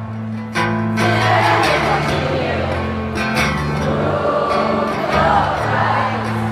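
Live rock band music at a concert: sustained low synth and bass chords that change every second or so, with guitar and singing voices over them.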